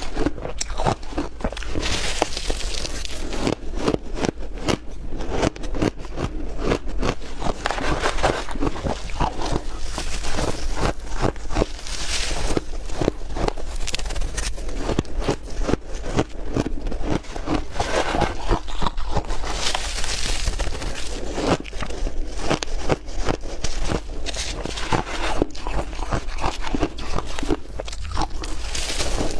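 Close-up crunching of chunky ice being bitten and chewed, a dense run of sharp cracks and crackles throughout.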